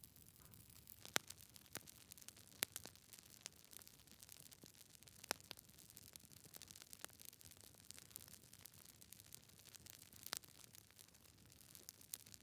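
Wood fire in a fireplace, logs crackling faintly: irregular sharp pops and snaps over a soft hiss, with a few louder pops scattered through.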